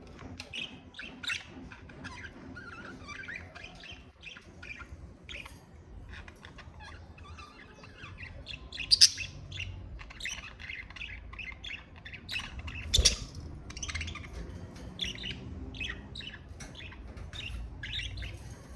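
Budgerigars chirping and chattering continuously in quick short calls, with two louder sharp calls about nine and thirteen seconds in.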